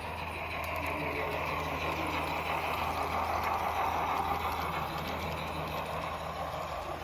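Steady low mechanical hum under a noisy rumble that swells about halfway through and eases off again.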